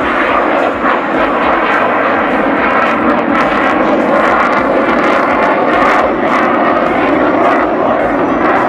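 Military fighter jet flying a display, its engine giving a loud, steady roar that builds a little in the first second and then holds.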